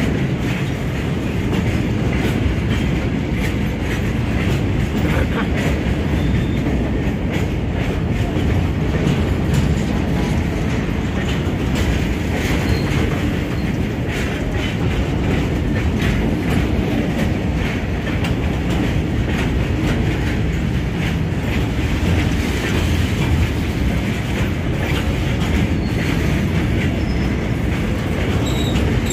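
Train rolling past on the track: a steady, loud rumble of wheels on rails with clickety-clack over the rail joints.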